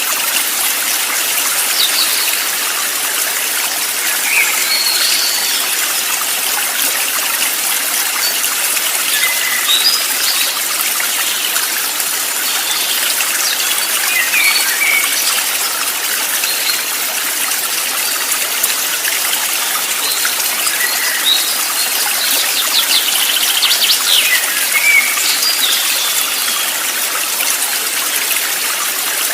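Running water of a stream or brook, a steady rushing trickle, with scattered short bird chirps over it.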